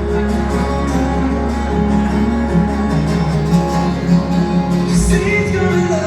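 Live band music: acoustic guitar with singing over a steady low bass that drops out about five seconds in.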